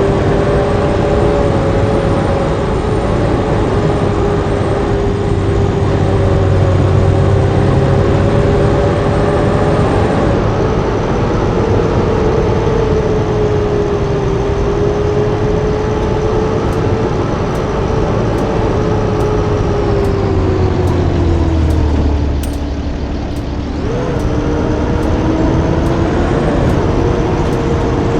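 Blue Bird school bus diesel engine running steadily under way, with a steady whine over the engine note. About two-thirds of the way through the engine note falls away and dips briefly, then picks up again, while faint regular clicks tick in the background.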